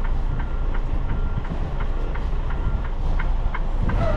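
Semi truck's diesel engine running with a steady low rumble while the truck is manoeuvred slowly, with a run of short clicks and brief high beeps over it.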